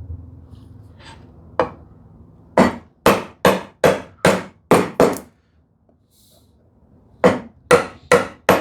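A chisel being struck with a mallet to chop a housing dado in a wooden drawer side: a run of about eight sharp wooden knocks, roughly two a second, a pause, then four more.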